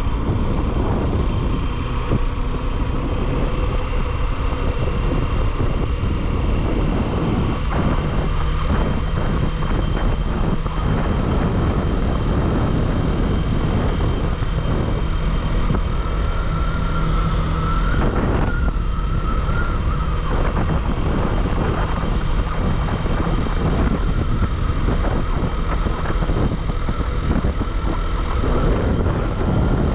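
Bajaj Pulsar motorcycle on the move: steady engine and road rumble under heavy wind rush on the microphone. A thin wavering whine joins about halfway through.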